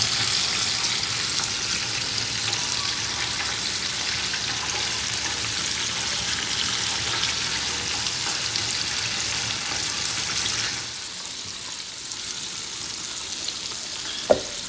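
Chicken pieces deep-frying in hot oil, a steady sizzle that grows quieter about eleven seconds in. A single knock near the end.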